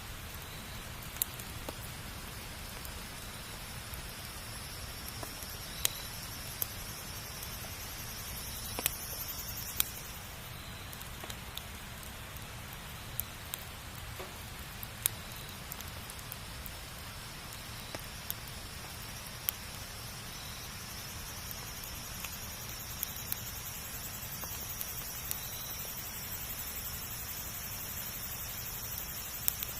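Wood campfire burning: a steady hiss with sharp crackles and pops at irregular moments, every second or few.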